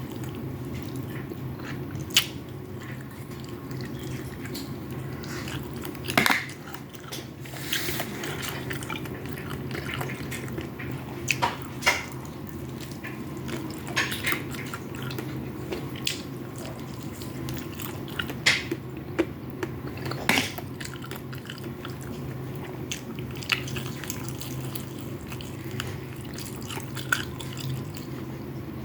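Close-up eating sounds: chewing and wet mouth noises of someone eating fried rice, with scattered sharp clicks, over a steady low hum.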